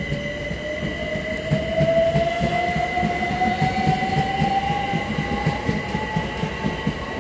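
Class 387 electric multiple unit pulling away, its traction motors whining and rising slowly in pitch as it picks up speed. Its wheels clatter over the rail joints underneath.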